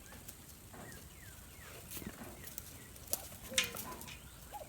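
Birds calling faintly in short chirps and brief falling calls, with two sharp clicks or taps a little after three seconds in.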